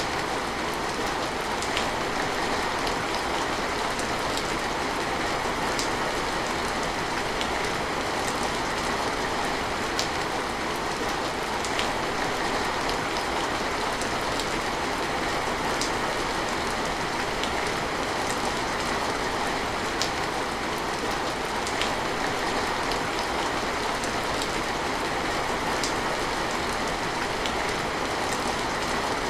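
Steady rain: an even hiss with scattered sharper drop taps.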